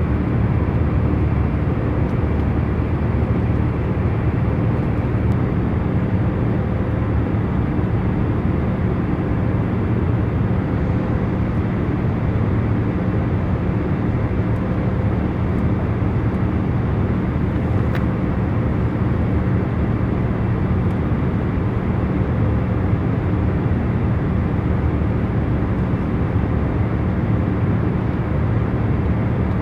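Jet airliner cabin in cruise: a steady low rushing hum of engines and airflow, with faint steady tones.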